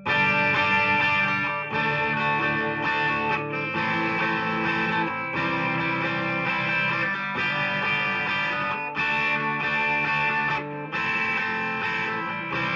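PRS SE McCarty 594 Singlecut electric guitar on its bridge humbucker, played through a Marshall DSL-1 amp's classic gain channel into a miked 2x12 cabinet. Chords are struck about every two seconds, each one left to ring out with a light crunch.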